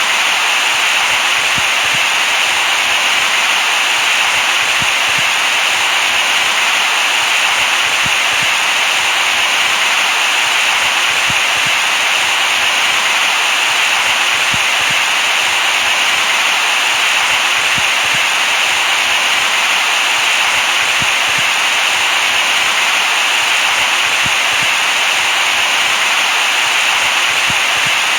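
Steady white noise: an even, unchanging hiss, loudest in the upper range, with no breaks or other sounds.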